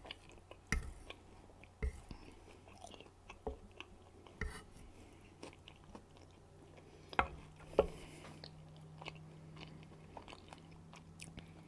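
Close-miked chewing of a guacamole and candied bacon burger slider: soft wet mouth clicks and smacks, with a few sharper clicks scattered through, the loudest about 7 and 8 seconds in.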